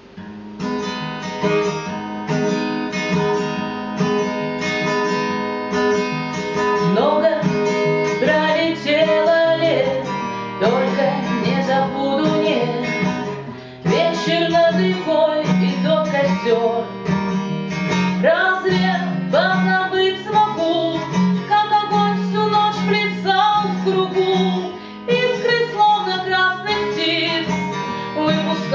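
Acoustic guitar playing the instrumental introduction to a song, plucked and strummed over a held low note.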